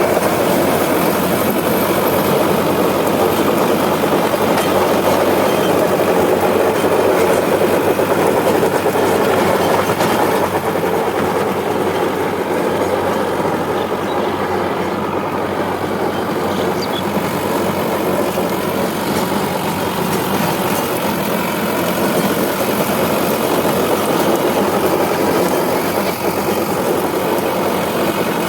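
Diesel tractor engine running steadily, a little louder for the first ten seconds or so.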